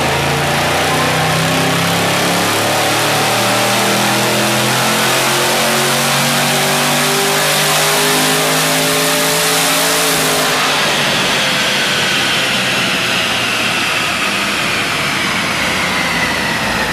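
Supercharged 6.2 L LS3 V8 of a Chevy SS, breathing through factory manifolds and exhaust, running a wide-open-throttle pull on a chassis dyno with revs climbing steadily. About ten seconds in the throttle closes and it coasts down, a high whine falling in pitch as the rollers slow.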